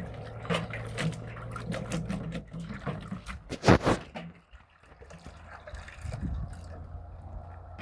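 Water splashing and trickling during washing by hand, with many small irregular knocks and one louder knock about three and a half seconds in.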